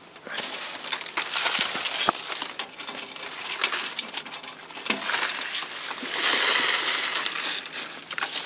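A set of keys jangling and clinking while being handled, irregular light metallic rattles; the tractor's engine is not running.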